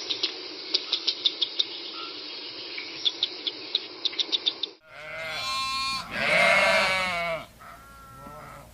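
A steady hiss with rapid sharp clicks, like insects, cuts off about five seconds in. A farm animal then bleats loudly in long wavering calls, with a softer bleat near the end.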